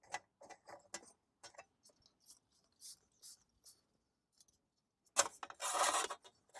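Small integrated camping gas stove head and gas canister being handled and fitted together: light clicks and rubbing of metal parts, then near the end a sharp click and a short hiss of gas.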